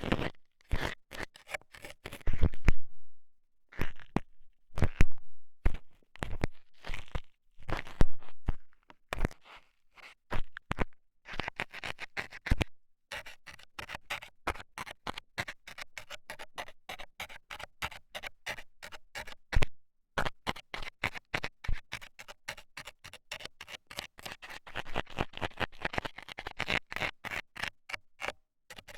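Metal scaler pick jabbing and scraping rapidly in a microphone's ear: dense, irregular scratches and taps, with short pauses about three and a half, twelve and a half and twenty seconds in.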